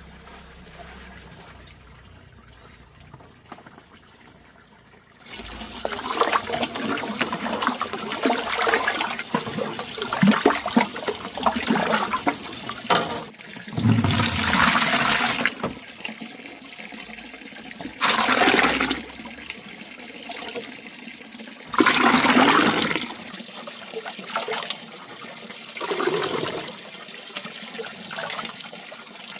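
Water pouring and splashing. It starts about five seconds in, then comes in loud gushes roughly every four seconds, as if water is being thrown or poured by the scoopful.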